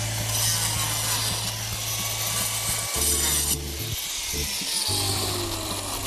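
A saw cutting through wood, making the opening for a chimney in a roof, with background music of sustained low chords underneath.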